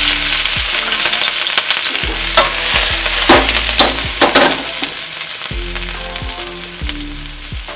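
Finely chopped ginger, garlic and green chili sizzling in hot oil in a wok, freshly added, with a few sharp crackles around the middle. The sizzle slowly dies down.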